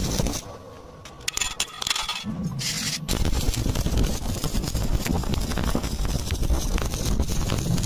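Stick (arc) welding: the electrode arc crackling and sputtering. It drops away about half a second in, with a few sharp ticks, and crackles steadily again from about three seconds.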